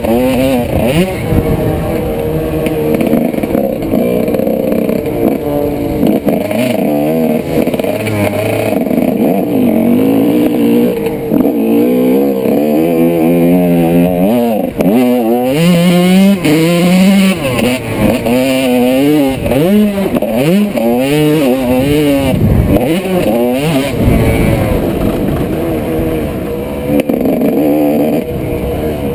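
1995 Honda CR125's 125 cc two-stroke single-cylinder engine being ridden hard, its pitch climbing and dropping again and again as the throttle is opened and shut.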